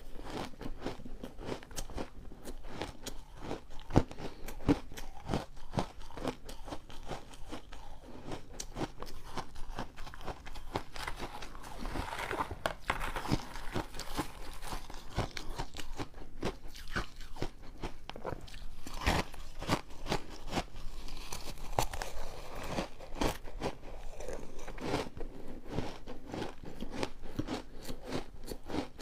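Refrozen ice being bitten and chewed close to the microphone: a continuous run of irregular sharp crunches and crackles.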